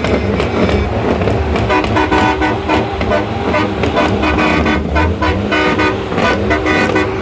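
A truck engine running, with a vehicle horn sounding in several blasts from about one and a half seconds in.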